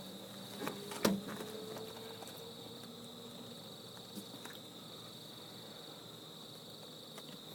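Night insects chirring in a steady, unbroken high-pitched drone, with a couple of sharp knocks about a second in.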